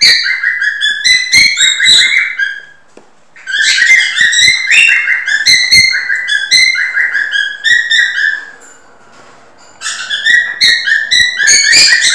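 A songbird singing loudly close by: quick runs of chirps, each note dropping in pitch, in phrases of about three seconds with two short pauses between them.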